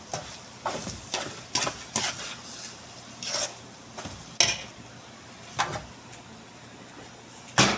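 A spoon stirring and scraping through chicken asado filling in a cooking pan, with irregular knocks against the pan, the loudest near the end.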